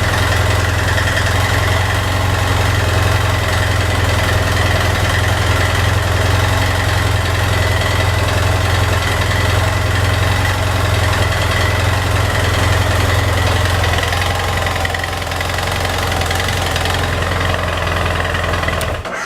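BMW F800S's 798 cc parallel-twin engine idling steadily through its stock muffler. The sound cuts off abruptly near the end.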